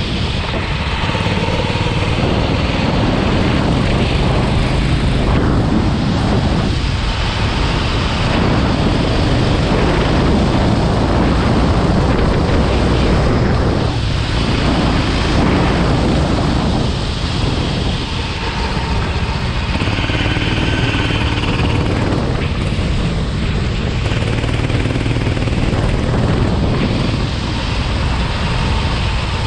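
Go-kart engine running hard, its pitch repeatedly rising and falling over a few seconds at a time as it accelerates and backs off, over a steady rushing noise.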